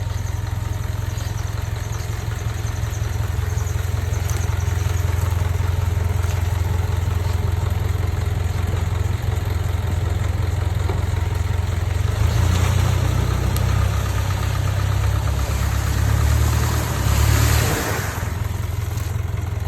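Vehicle engine running at idle, then revving harder for several seconds from about twelve seconds in before settling back.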